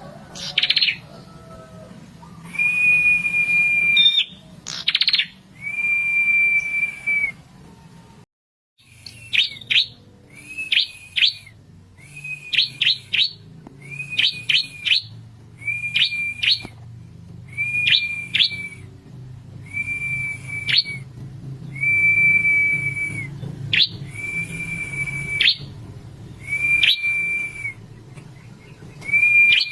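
A prenjak kepala merah (red-headed prenjak, a small songbird) singing: steady, flat whistled notes about a second long alternate with quick sharp chips in clusters of two or three, repeating over and over. The song drops out briefly about a third of the way in, then resumes.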